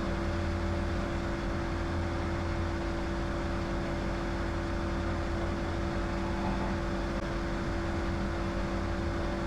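Diamond DA20 light aircraft's piston engine and propeller running in a steady drone at climb power just after takeoff.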